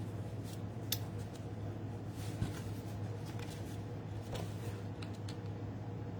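Scattered light clicks and rustles of card stock and craft tools being handled, over a steady low hum from the room's air conditioning.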